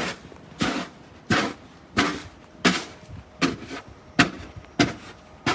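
Footsteps crunching through deep snow at a steady walking pace, about eight or nine steps.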